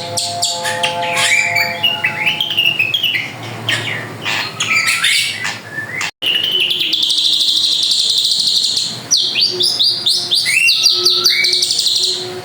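Drongo (srigunting) singing vigorously: a loud, varied run of whistled notes, sliding calls and fast chattering trills, which breaks off for an instant about six seconds in.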